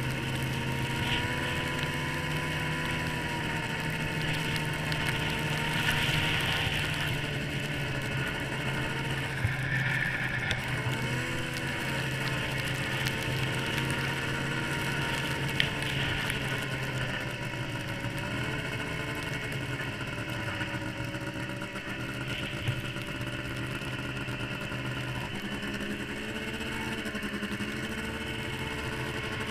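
Yamaha SRX 700 snowmobile's three-cylinder two-stroke engine running under way, its pitch rising and falling with the throttle, with a few sharp knocks. It is heard muffled through a waterproof camera case.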